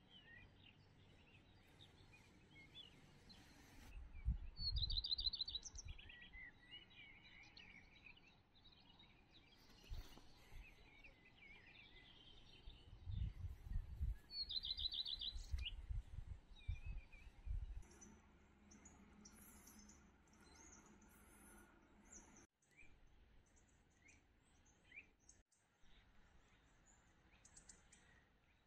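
Songbirds singing faintly, with scattered chirps and a short rapid trill heard twice, about ten seconds apart. Two spells of low rumbling, about four seconds in and again from about thirteen to eighteen seconds, are the loudest parts.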